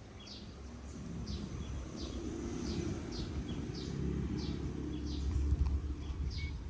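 A bird chirping over and over, short high calls about every two-thirds of a second, over a steady low rumble.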